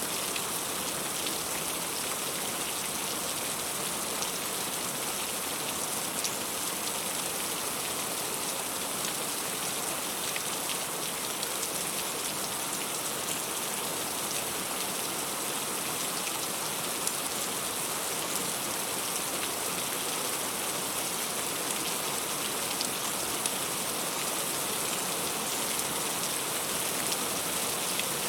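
Heavy rain falling steadily, a dense hiss with scattered drop ticks of raindrops striking close surfaces.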